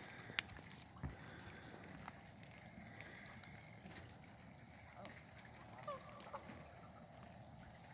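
A few faint, short bird calls about five to six and a half seconds in, over a low steady hiss.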